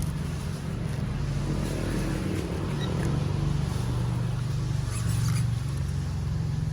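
Nitro engine of a Hobao Hyper VS RC buggy running during break-in, a steady low buzz that swells slightly about four to five seconds in.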